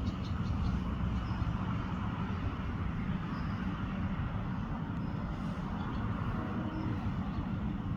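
Steady low rumble of outdoor background noise, like distant traffic, with a few faint, short, high chirps from sparrows feeding.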